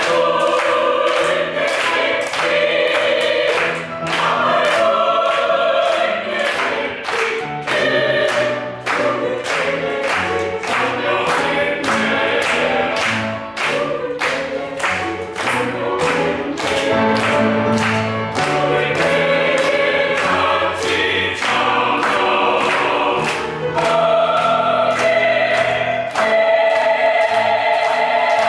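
Choir singing a sacred Christian piece over a steady beat.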